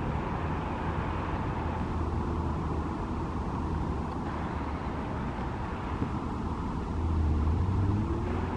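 Steady low rumble of road traffic, with a vehicle passing a little louder about seven seconds in.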